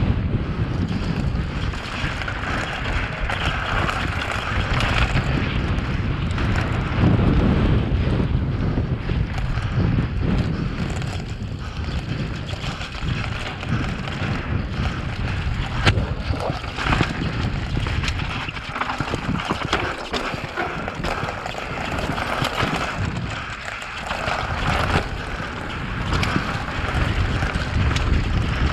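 Downhill mountain bike descending a rocky trail: wind rushing over the microphone, with a constant rattle and frequent knocks from the bike and tyres hitting rocks.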